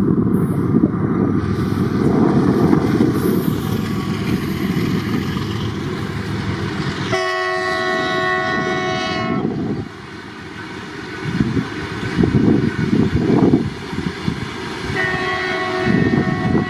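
Train running past with a heavy rumble of wheels on rail; a locomotive horn sounds for about two and a half seconds from about seven seconds in. Then the rumble drops to intermittent wheel clatter, and the horn sounds again near the end.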